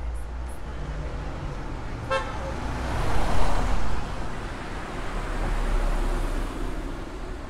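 A short car horn toot about two seconds in, followed by a car passing close by and then another vehicle going past more softly, over steady street traffic noise.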